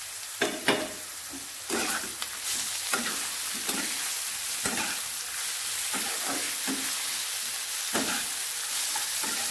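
Button mushrooms sizzling as they fry with onions in hot mustard oil, stirred with a spatula that scrapes through them about once or twice a second. The sizzle grows a little louder about two seconds in.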